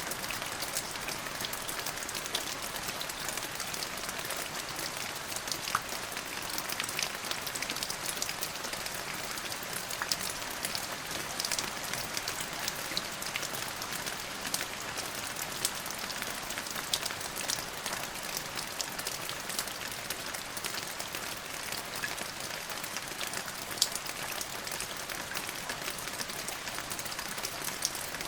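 Steady rain falling, with many individual drops ticking close by against the even hiss of the downpour. There is no thunder in this stretch.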